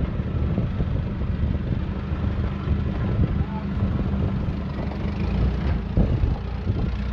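A four-wheel-drive vehicle's engine running while it drives an off-road track: low, uneven engine and driveline noise with scattered small knocks.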